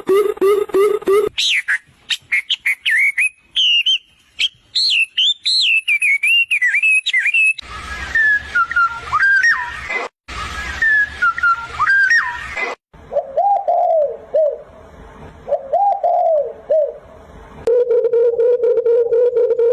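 A string of different bird calls and songs, each cut off abruptly by the next: a low warbling trill, then quick high chirping whistles, then lower sliding calls. A steady low trill begins near the end.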